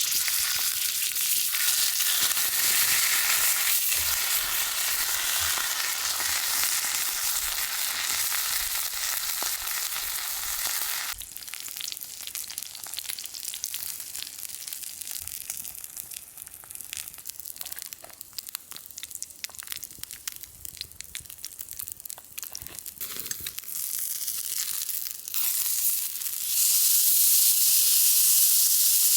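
Thick wagyu steak sizzling on a hot iron griddle plate over an open wood fire, a dense frying hiss full of fine crackles. It drops suddenly to a quieter, popping sizzle about a third of the way in, then comes back loud near the end.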